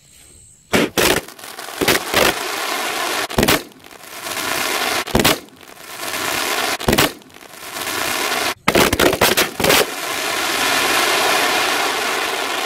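Sonny 'High Voltage' 100-shot crackling sky-shot cake firing. Sharp bangs come in quick pairs about every one and a half seconds, with a tighter run of four near the end, and a dense crackling from the crackling-effect stars fills the gaps between them. It starts under a second in.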